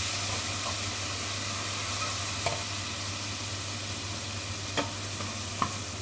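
Shrimp with garlic and herbs sizzling in a nonstick frying pan, stirred with a plastic spatula that scrapes through the food and knocks against the pan a few times.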